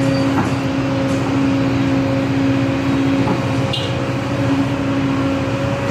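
Excavator's engine running steadily with a steady pitched hum over it, and a few faint knocks.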